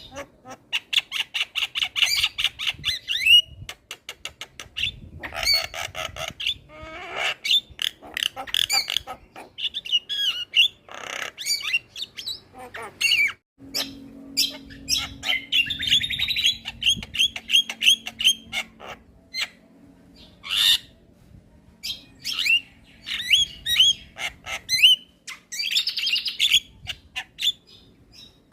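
Javan myna singing: a fast, varied stream of rasping squawks, clicks and quick trilled runs. It breaks off briefly about halfway, then carries on over a faint low hum.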